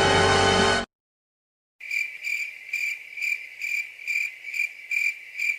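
Crickets sound effect: after a music clip cuts off just under a second in and a short silence, a cricket chirps steadily in high, thin pulses, about two a second. This is the familiar crickets effect used to mark an awkward silence.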